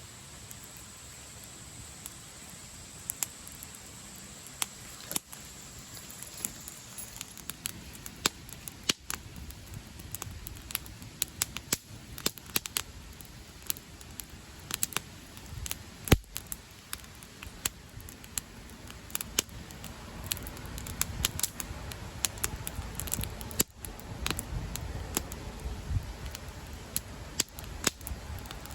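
Wood campfire crackling: sharp pops and snaps at irregular intervals, one clearly louder than the rest about halfway, over a steady low background noise. The pops come thicker in the second half.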